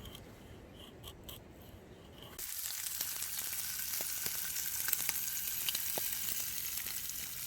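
A few faint clicks, then from about two and a half seconds in, breakfast food sizzling in a hot pan over a campfire: a steady hiss with small pops.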